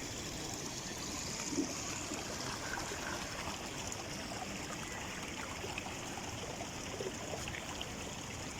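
Steady rush of flowing stream water, with a few faint small ticks over it.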